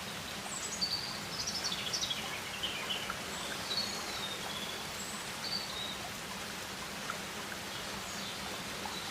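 Rainforest ambience: a steady background hiss with scattered high bird chirps and short whistles, most of them in the first few seconds.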